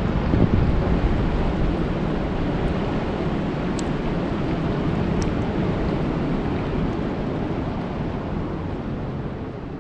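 Steady rain falling on a lake: a dense hiss over a deep low rumble, starting to fade out near the end.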